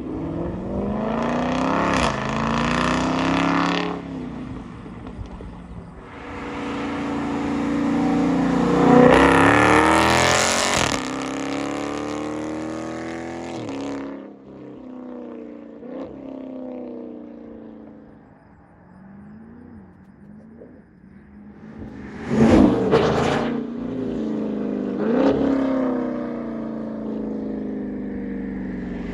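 Dodge Charger Scat Pack's 6.4-litre HEMI V8 running through a Thermal R&D exhaust, revving up and falling back several times. The longest and loudest run comes in the middle, followed by two sharp blips later on.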